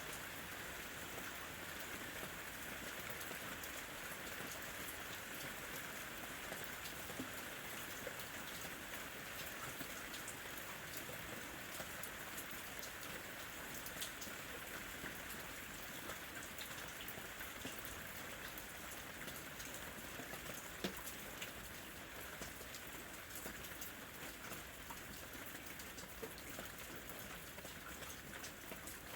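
Steady rain falling, with many separate drops ticking close by and one sharper drop about two-thirds of the way through.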